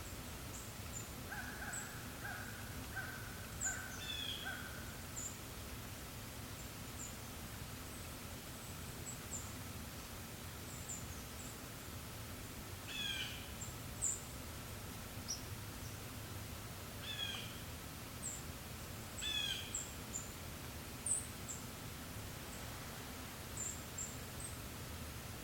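Forest songbirds calling: many short high chirps throughout, a run of about five repeated harsher notes near the start, and a few longer falling calls scattered through. A soft, steady breeze runs underneath.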